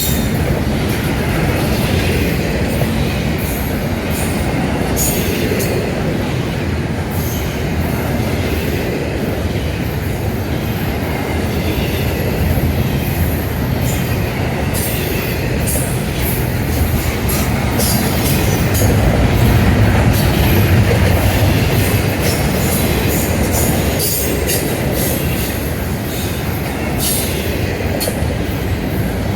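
Freight train rolling past: a steady rumble of cars on the rails, with sharp clicks and squeals from the wheels throughout, a little louder about two-thirds of the way through.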